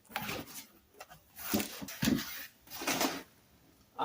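A cardboard box and its packing being handled and opened: several irregular rustles and scrapes.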